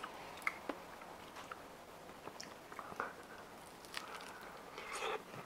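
Soft mouth sounds of someone chewing and eating ripe Monstera deliciosa fruit, with scattered short clicks and smacks.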